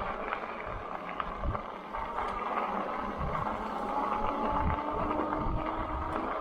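Lectric XP electric bike rolling along a trail: steady tyre and travel noise with wind buffeting the microphone in irregular low gusts, and a faint whine rising slowly in pitch in the second half.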